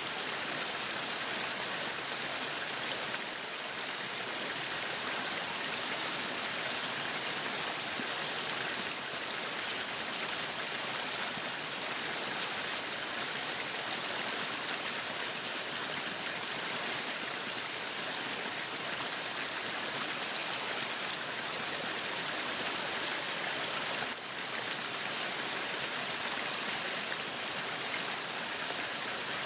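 Meat sizzling on a yakiniku grill: a steady, dense sizzle with fine crackling.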